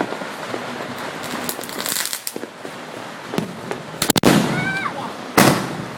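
Fireworks going off: a steady crackle of small pops and sharp reports, with two louder bangs in the second half.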